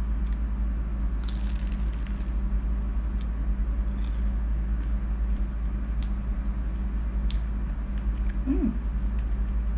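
Biting and chewing crunchy deep-fried battered squid, with a burst of crunching about a second in and scattered small mouth clicks after, over a steady low hum.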